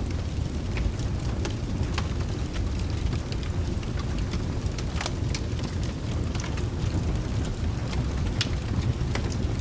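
Rain ambience with a steady low rumble of thunder underneath and scattered sharp crackles from a wood fire.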